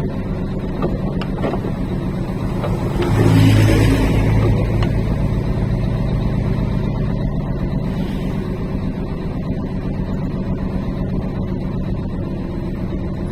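Truck's diesel engine running steadily on a downhill, heard from inside the cab. About three seconds in it swells louder with a deep hum and a hiss, which fade away over the next few seconds.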